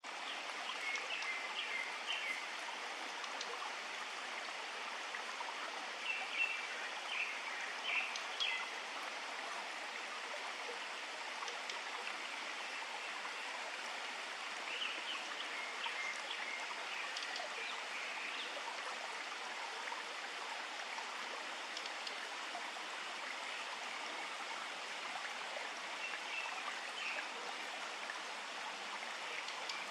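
A pair of blue-and-white flycatchers, male and female, giving short clicking tak calls in scattered bursts, over the steady rush of a stream.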